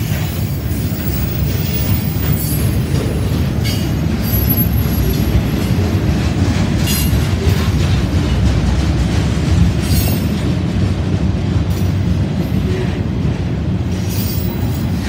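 Freight train of loaded flatcars rolling past: a steady low rumble of steel wheels on rail, with a few brief sharp clicks and squeaks from the wheels.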